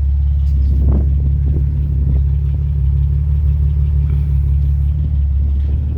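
1993 Nissan 300ZX Twin Turbo's 3.0-litre twin-turbo V6 idling steadily through a catted exhaust with mid-pipe resonators: an even, low exhaust rumble, nice and quiet.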